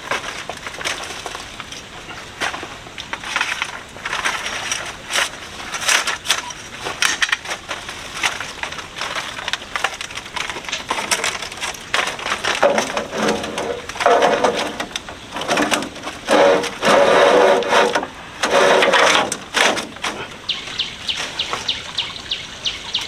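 Split bamboo strips cracking, rustling and scraping as they are woven through the uprights of a bamboo wall panel. In the second half, several louder drawn-out creaks or squeals, each about a second long, stand out. Near the end, a fast run of light ticks.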